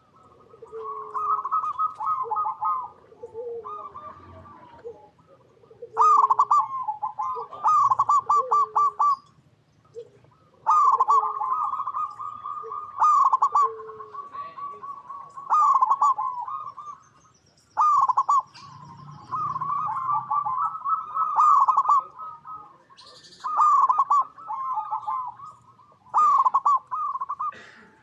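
Zebra doves (perkutut) singing: phrase after phrase of quick, rippling coos with short pauses between. A lower, softer cooing note repeats underneath in the first half, and faint high chirps come in here and there.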